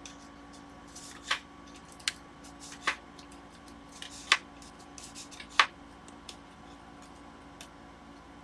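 Sharp small clicks and taps, about five spread over several seconds, of tools prying at a Microsoft Surface tablet's glued-down screen, over a faint steady hum.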